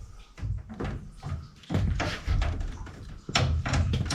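A series of knocks and clatters with heavy thumps, the loudest cluster near the end.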